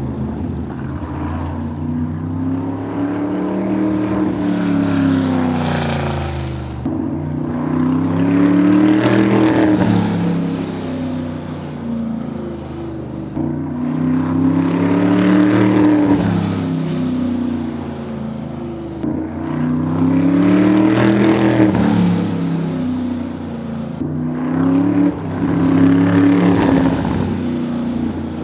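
Sprint car engine lapping a quarter-mile dirt oval on a slow shakedown run. It rises and falls in pitch and loudness with each lap, peaking about every five to six seconds.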